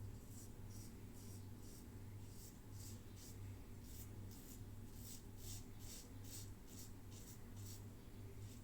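Yates 921 H safety razor scraping through stubble in short, quick strokes, about two to three a second, over a steady low hum.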